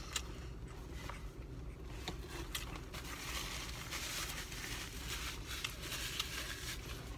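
A person eating: faint chewing with scattered small clicks and rustles from hands handling meat and a food container, over a low steady hum.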